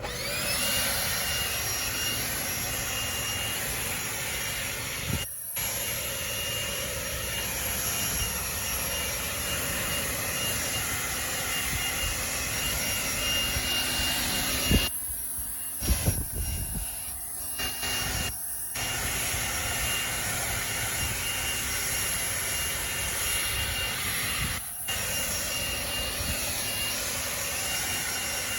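Ryobi 40-volt battery leaf blower running steadily with a jet-like whine. The sound thins out briefly about five seconds in, a few times between fifteen and eighteen seconds, and again near twenty-five seconds.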